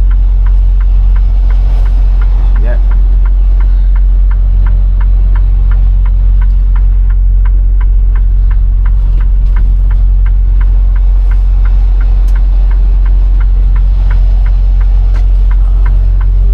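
Semi-truck engine's steady low drone heard inside the cab while driving, with a regular clicking about three times a second running over it.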